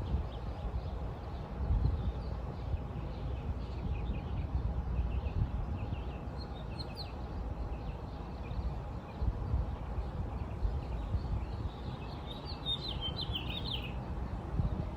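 Small birds chirping, with a denser, louder run of quick chirps near the end, over a steady low rumble.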